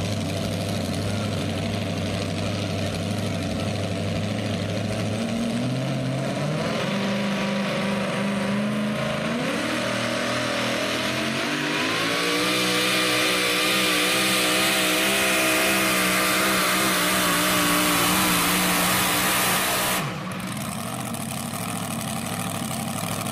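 Super modified four-wheel-drive pulling truck's engine running low and steady, then climbing in steps about five to twelve seconds in. It holds at high revs, loud and with a rising hiss, then drops off suddenly near the end.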